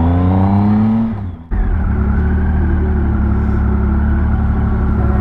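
Motorcycle engine accelerating, its pitch rising for about a second, then dropping away for an instant about a second and a half in, as at a gear change, and running on at a steady pitch.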